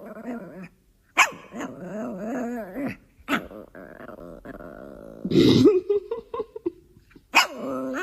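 A dog making long, wavering growling whines in several bouts with short breaks between them, and a louder bark about five seconds in.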